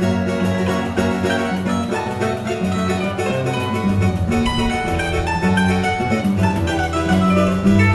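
Choro group playing: a guitar's moving bass line under quick, plucked-string melody notes.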